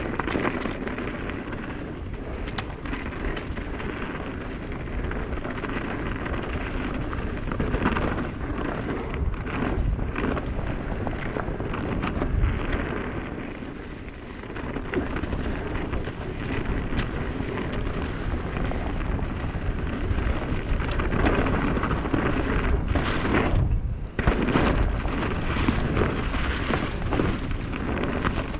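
Mountain bike rolling over a dirt trail that is frozen in spots: a steady low rumble of tyres on the ground, with scattered clicks and knocks from the bike and the trail surface.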